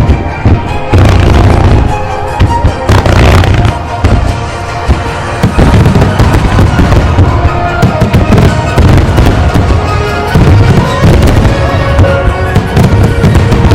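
Fireworks bursting in quick succession, dense booms and crackle, with music playing throughout.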